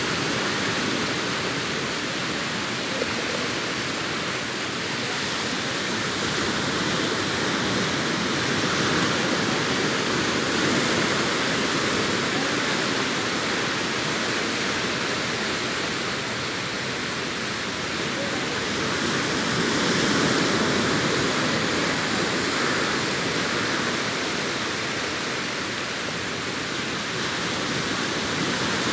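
Sea surf washing onto a beach: a continuous rush of breaking waves that swells and eases in slow surges.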